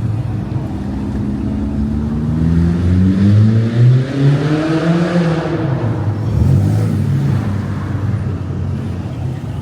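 A motor vehicle driving past in the street. Its engine note rises in pitch and grows louder, peaking about four seconds in, then falls away as it passes.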